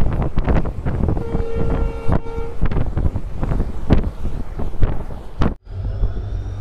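Passenger train running fast, heard from an open coach door: low rumble of the wheels with wind buffeting the microphone in irregular thumps, and the diesel locomotive's horn sounding once for about a second and a half. Near the end, after a cut, the train rolls slowly with faint high wheel squeal as it comes into a station.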